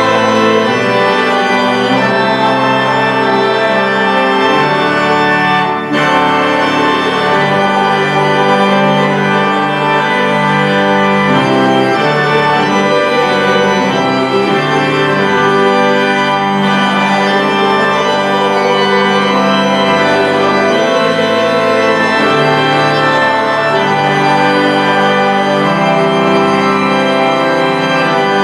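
Pipe or electronic church organ playing sustained chords, a slow hymn-like passage that moves from chord to chord.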